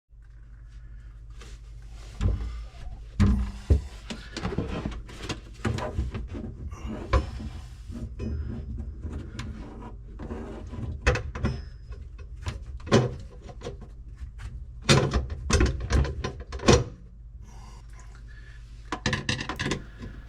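Irregular clunks, knocks and scraping of a garbage disposal being lifted back up and fitted onto its sink mounting ring, with a steady low hum underneath.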